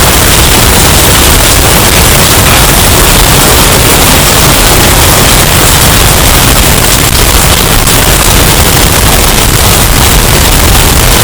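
Hurricane sound effect with extreme bass boost and distortion: a steady, clipped roar of wind noise at full volume.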